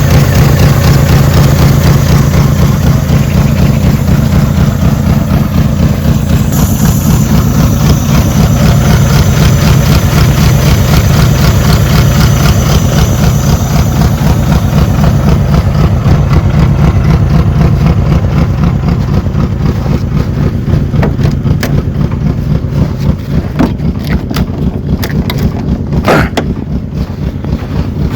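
Citroën GS's air-cooled flat-four engine idling steadily while it warms up after a cold start in −13 °C frost. A few sharp clicks or knocks come near the end.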